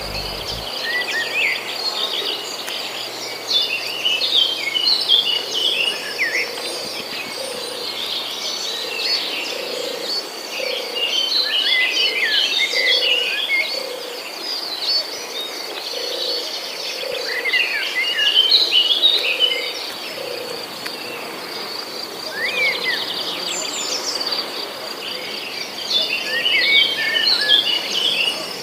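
Several birds chirping and twittering in quick bunches of short notes, over a steady high insect trill. A soft low note repeats about once a second underneath.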